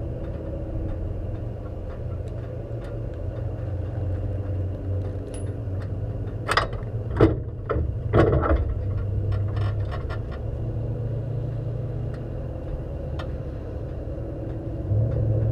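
Race car engine idling steadily while the car sits stationary, heard from inside the cockpit. A few sharp clicks and knocks come about halfway through.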